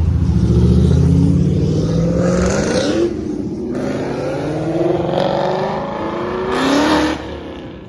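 A performance car's engine accelerating hard: the pitch climbs, falls back about three seconds in as it shifts up, climbs again through the next gear, then drops off sharply near the end.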